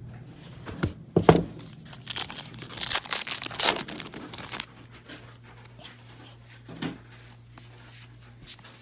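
A trading-card pack wrapper is torn open and crinkled, making a loud ripping rustle for about two and a half seconds. A few sharp clicks come before it, and lighter handling noises follow.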